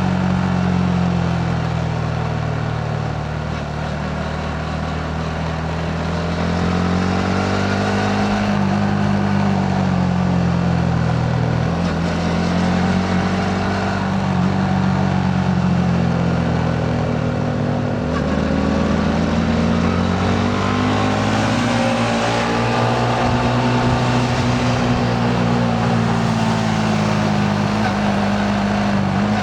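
Yamaha MT-15's single-cylinder engine, heard from the rider's seat while riding. The revs rise and fall again and again as the throttle opens and closes, over a steady rush of wind and road noise.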